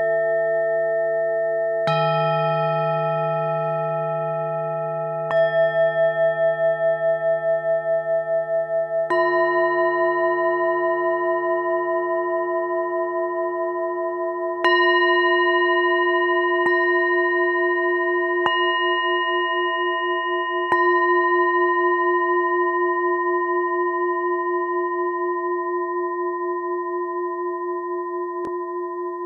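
Tibetan singing bowls of several different pitches struck one after another, about seven strikes. Each rings on with a slow wavering beat, overlapping the others as the tones fade.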